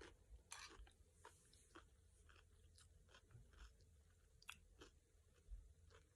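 Faint chewing of crisp cucumber salad: a string of small, irregular wet crunches and mouth clicks, about two or three a second.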